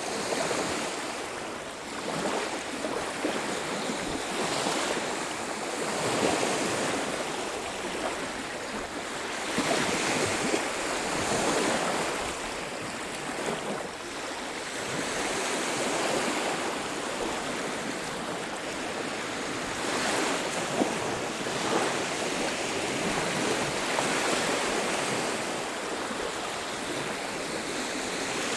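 Waves breaking and washing on a beach: a steady rush of surf that swells and eases every few seconds.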